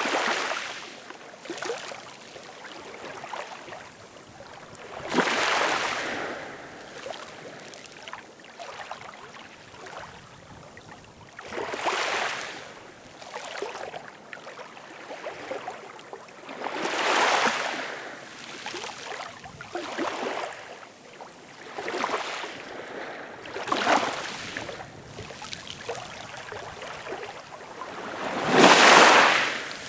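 Ocean waves washing onto a shore, rushing in about every five seconds with quieter hiss between, the loudest surge near the end.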